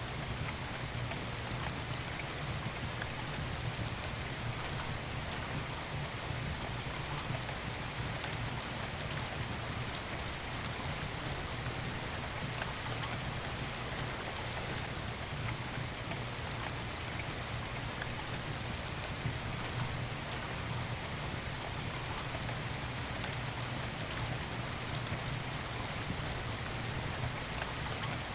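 Steady rain falling, an even hiss with a low rumble beneath it and a few faint sharp ticks.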